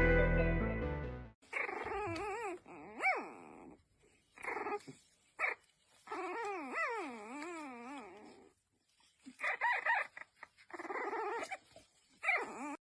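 A dog vocalising in a series of drawn-out whining, howl-like calls, their pitch wavering up and down, with short pauses between them. Background music fades out just before the first call.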